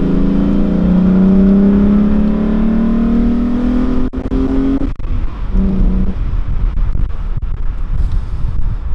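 VW Golf 4 Cabrio's VR6 six-cylinder engine, heard from inside the cabin, pulling under acceleration, its note rising steadily. About five seconds in the rising note falls away, leaving a lower, rougher running sound with road noise.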